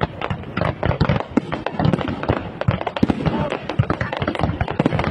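Aerial fireworks display going off in dense, rapid succession: many overlapping bangs and crackles, several per second.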